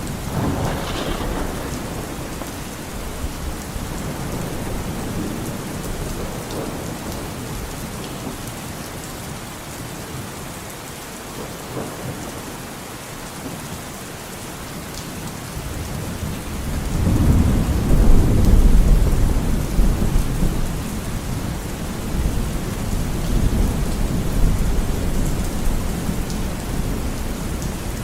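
Steady rain falling, with rolling thunder: a low rumble about a second in, and a louder, longer rumble starting about 17 seconds in that slowly dies away.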